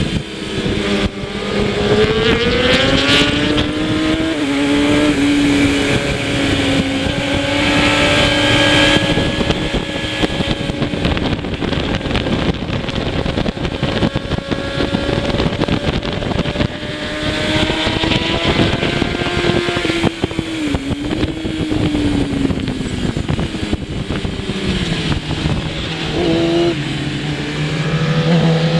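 Kawasaki ZX-10R superbike's 1000 cc inline-four engine at race pace, heard onboard over wind rush. The revs climb in the first few seconds, then hold high and steady for over ten seconds. They drop as the bike slows about three-quarters of the way through, then rise again at the end.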